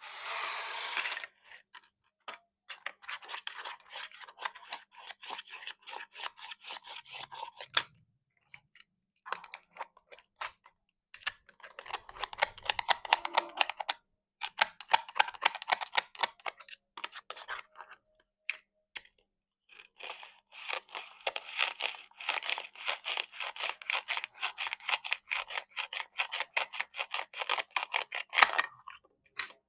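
Plastic toy fruit being cut apart, heard as runs of rapid crackly clicks a few seconds long with short pauses between them; the longest run comes in the last third.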